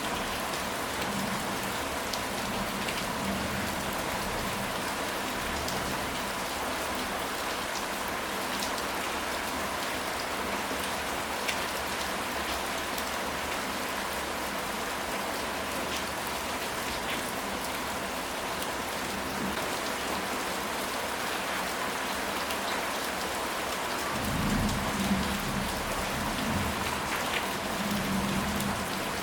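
Steady rain falling, an even hiss with scattered drop ticks. A low rumble of distant thunder comes in about three-quarters of the way through and again near the end.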